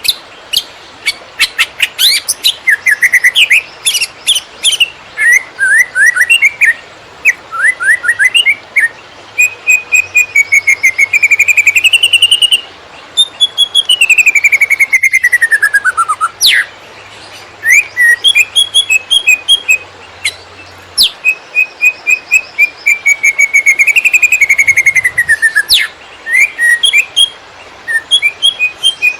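Green leafbird (cucak ijo) singing a fast, varied song in the chattering 'konslet' style: rapid ticking and chattering notes mixed with whistled trills and sliding whistles, including one long falling whistle about halfway through.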